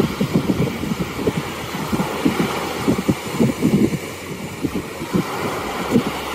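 Wind buffeting the microphone: a dense, irregular low rumble of gusts.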